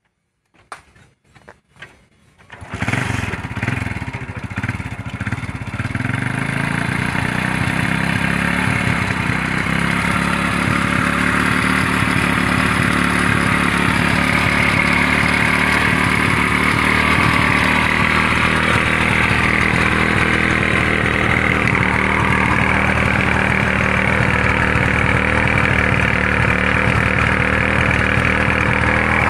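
Motorcycle engine started with a few short cranks, catching about three seconds in and settling into a steady run as it powers a water pump.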